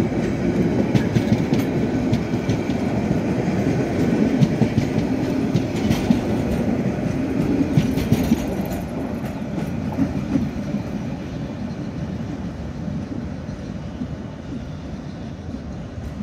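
Train of covered wagons rolling past at close range: a steady rumble with the clickety-clack of wheels over the rail joints. The sound fades over the second half as the last wagon moves away down the line.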